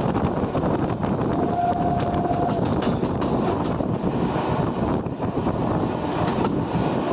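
Train running past on the Indian Railways line, a continuous rumble with wheels clacking over the rails. About a second in, a short steady horn-like tone sounds for about a second and a half.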